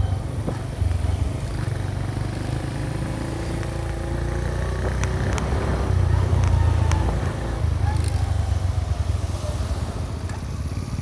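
Honda Magna 50's small single-cylinder four-stroke engine running under way, heard from the handlebars over a heavy low rumble. Its pitch drifts slowly up and down as the speed changes.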